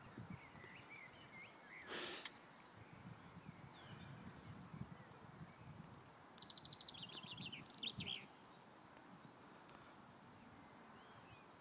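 Quiet outdoor ambience with small birds calling: scattered short chirps, and a trill of rapid repeated notes about six seconds in. A brief rustle about two seconds in.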